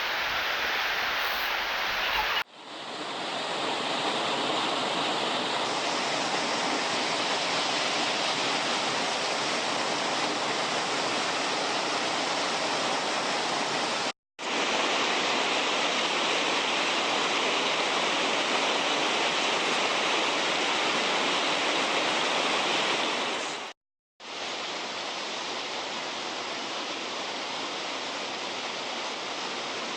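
Steady rush of cascading mountain water, a dense even roar. It breaks off abruptly three times, about two and a half seconds in, near the middle and about four-fifths of the way through, and the last stretch is a little quieter.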